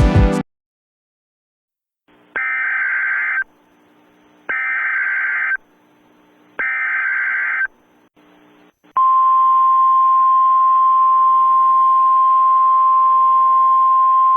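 Three one-second bursts of EAS SAME header data, the buzzy digital screech of an emergency alert, followed about a second later by a steady single-pitch 1050 Hz NOAA Weather Radio warning alarm tone. Together they signal the start of a weather warning broadcast. A faint hiss lies under the tones.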